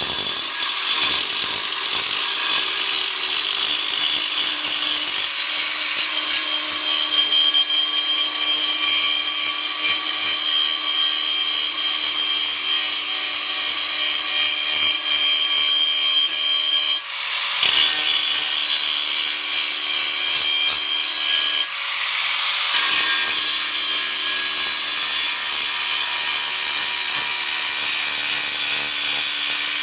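Power tool working steel plate: a steady motor whine under a harsh cutting noise, broken off briefly twice in the second half.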